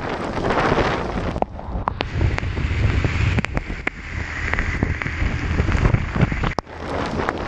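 Wind rushing over the microphone of a motorcycle riding through heavy rain, with a low rumble under it and many sharp ticks scattered through it. It drops out briefly about six and a half seconds in.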